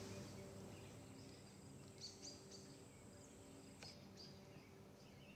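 Near silence: faint woodland ambience with a few soft, high bird chirps about two and four seconds in.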